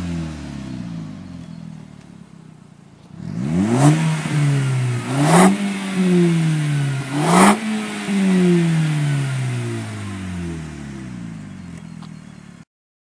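Audi TT TFSI turbocharged four-cylinder engine revved through a Milltek cat-back exhaust: the revs fall away, then three quick throttle blips follow, each with a short sharp rasp at its peak, and the revs sink slowly back toward idle before the sound cuts off suddenly near the end.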